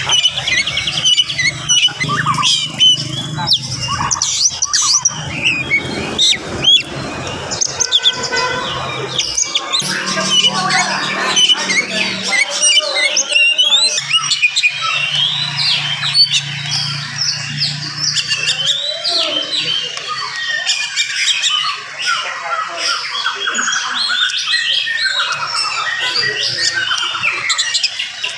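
Oriental magpie-robin (kacer) singing at full pace: a fast, densely packed run of varied chirps and whistles with hardly a pause. A low steady hum sits underneath at times.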